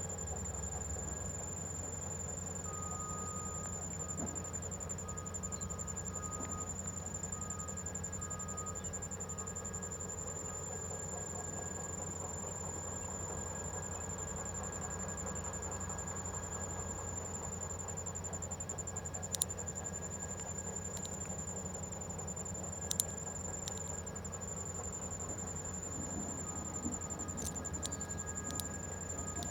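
A steady high-pitched insect trill, unbroken throughout, over a low steady hum, with a few sharp clicks in the second half.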